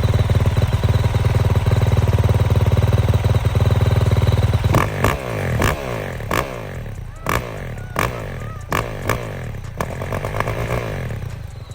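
2023 Yamaha YZ450F's single-cylinder four-stroke engine running, steady and loud for the first four or five seconds. It then goes quieter, broken by a string of sharp cracks, with the engine note rising and falling between them.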